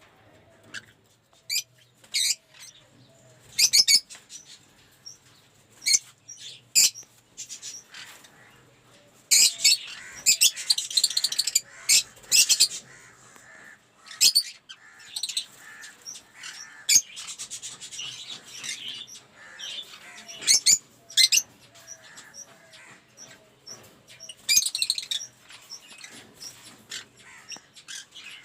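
A flock of aviary lovebirds calling: repeated shrill chirps and screeches in short bursts, thickening into dense chattering about a third of the way in and again just past halfway.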